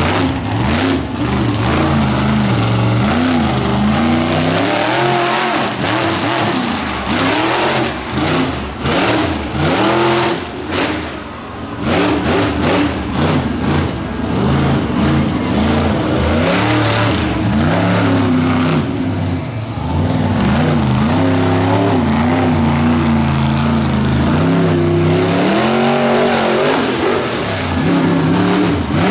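Monster truck engine revving hard over and over, its pitch climbing and dropping repeatedly with short lulls between bursts of throttle.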